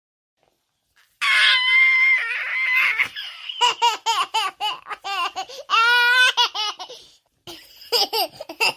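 A baby laughing: a long high-pitched squeal about a second in, then rapid bursts of giggling and belly laughs, with a short pause near the end before the laughter starts again.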